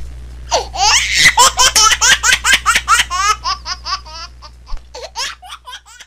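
High-pitched laughter: a quick run of 'ha' syllables, about five a second, that starts about half a second in and fades away towards the end.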